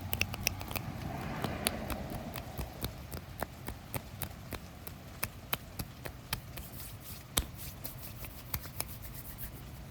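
Fabric being scratched close to the microphone: an irregular run of sharp scratches and ticks, denser at first and sparser later.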